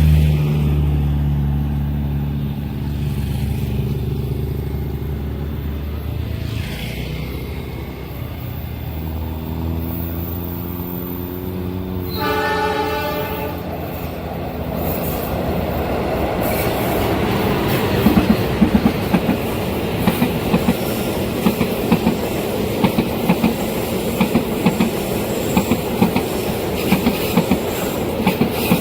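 A passing train: a low engine drone, then a horn sounding for about two seconds around twelve seconds in. After that comes the rush of the passing train, with regular sharp clacks of wheels over rail joints.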